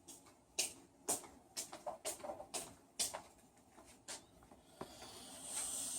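A series of light, separate clicks and knocks from handling drill parts, followed near the end by the rising hiss of a compressed-air blow gun starting to blow dust out of the hammer drill.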